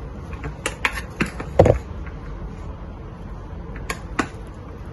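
Kitchen utensil clicking and tapping against a pan while the crispy rice crust is folded over: a few light clicks, one louder knock about a second and a half in, and two more clicks near the end.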